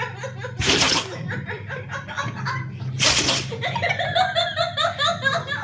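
A dog sneezing twice, sharply, about half a second in and again about three seconds in, with a person laughing between and after the sneezes.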